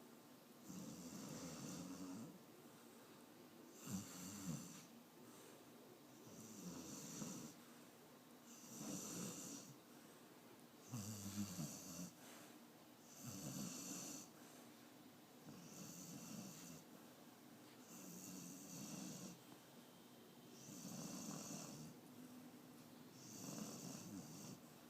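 An old dog snoring in deep sleep, slow rhythmic breaths about one every two and a half seconds. Two of the breaths, about 4 and 11 seconds in, catch sharper and louder.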